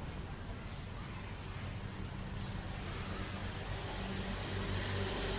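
Insects droning in one steady high-pitched tone, with a low mechanical hum that grows louder in the second half.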